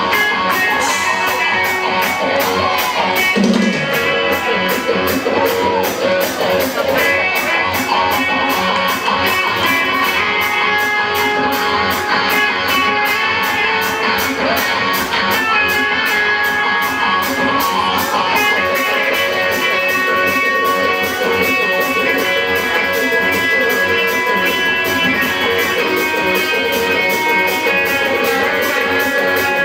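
Live rock band playing a song, guitars to the fore over a steady beat.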